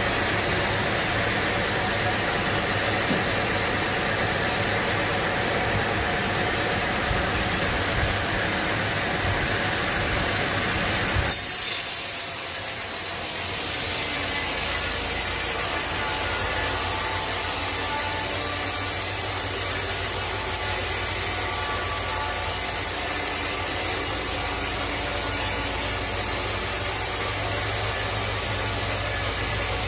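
Sawmill machinery running as a saw cuts through a teak log, a steady dense grinding noise whose character changes abruptly about eleven seconds in.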